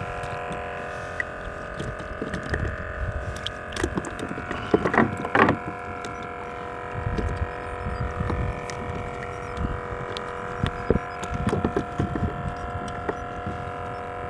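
A steady hum of several even tones, with gusty rumble and scattered clicks and knocks, the loudest a cluster about four to five seconds in.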